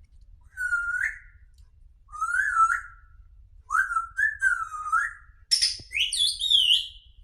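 Grey parrot whistling four short phrases of rising and falling pitch, each about a second long; the last, near the end, is higher-pitched.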